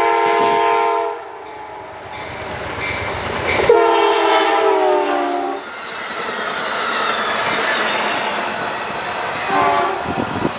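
Amtrak Cascades locomotive horn blowing a multi-note chord: a long blast, a second long blast that drops in pitch as the train passes, then a short one near the end, the long-long-short opening of a grade-crossing signal. Between the blasts, the rushing rail noise of the passing train rises.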